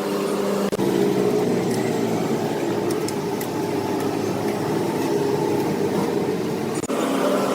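Fiat 480 tractor's diesel engine running steadily, its note shifting at two abrupt breaks, about a second in and near the end.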